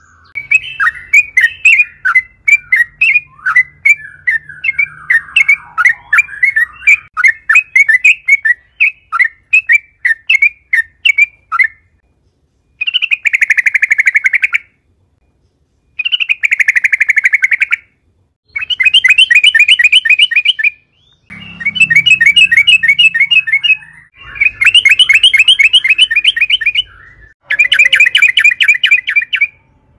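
Yellow-vented bulbul calling. It opens with a long run of quick, bubbly notes, then gives a series of fast chattering bursts of about two seconds each, broken by short clean silences.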